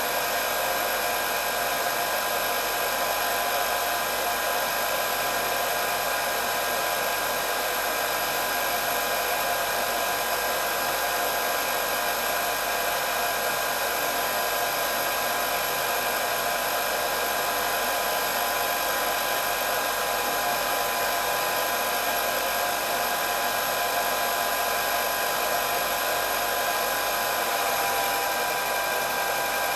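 Hair dryer running steadily: an even rush of blowing air with a motor whine held at a few constant pitches.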